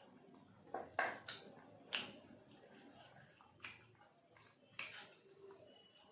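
Eating sounds: about seven short, sharp clicks and smacks scattered over a few seconds, with faint room hiss between them.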